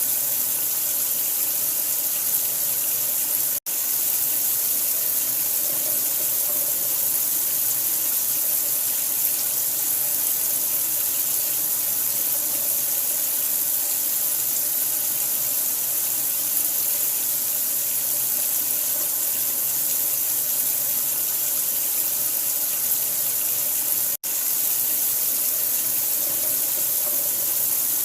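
Steady running water, a continuous even hiss played as a sleep sound for a newborn. It drops out for an instant twice, about four seconds in and near the end.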